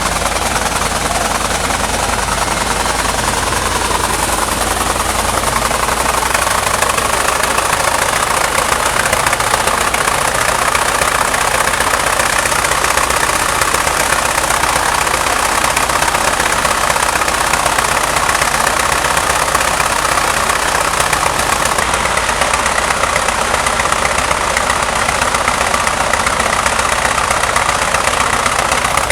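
M5A1 Stuart light tank's Cadillac V8 running loudly and steadily, probably only one of its twin V8s, since the second engine fails to start.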